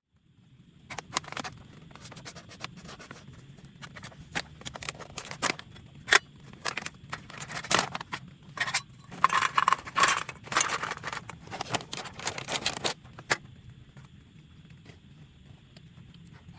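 Close-up handling noises: a dense run of sharp clicks, scrapes and crackling for about twelve seconds, then stopping, over a low steady background.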